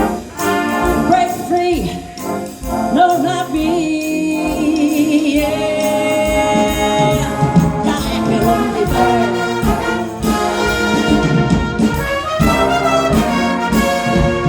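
Big band playing a jazz arrangement, with trumpets and trombones carrying sustained chords over a steady drum beat.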